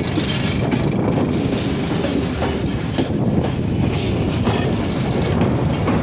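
Passenger train running on the rails: a steady rumble of wheels on track, with scattered clacks as the wheels cross rail joints.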